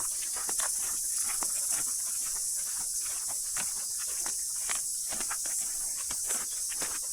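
Loud, steady, high-pitched chorus of cicadas in native bush, with scattered irregular clicks through it.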